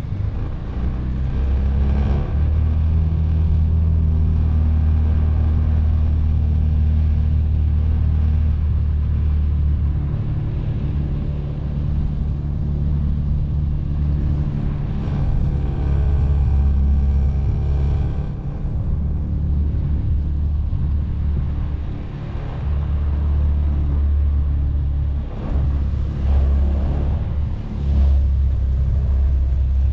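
Can-Am Defender side-by-side's engine running while plowing snow, a steady low drone whose pitch and level shift every few seconds as it works back and forth, with a few brief knocks.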